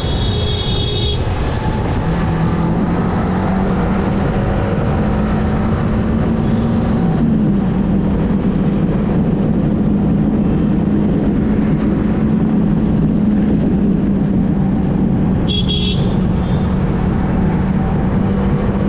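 Yamaha R15M's single-cylinder engine running steadily at cruising speed under wind rush, its pitch stepping up about seven seconds in. A vehicle horn beeps briefly near the end.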